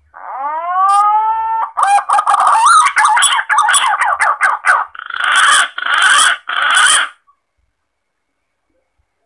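Green pigeon (punai) call played as a hunting lure: a whistled note whose pitch rises over about a second and a half, then a fast run of warbling notes, then three harsh rasping bursts. It ends about seven seconds in.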